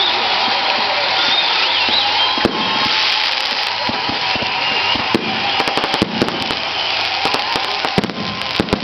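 Firecrackers going off in a rapid, continuous crackle, with many sharp pops scattered through it.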